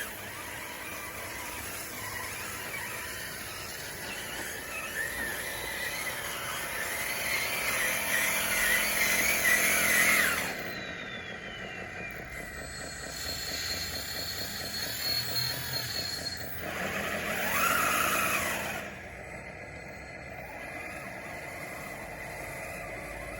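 Electric drive motors and gearboxes of a DXR2 RC bulldozer whining as it works dirt, with two louder grinding surges, the first building to about ten seconds in and a shorter one near the two-thirds mark.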